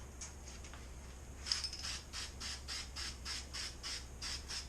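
Aerosol can of copper gasket spray hissing in a quick run of short bursts, about four a second, starting about a second and a half in.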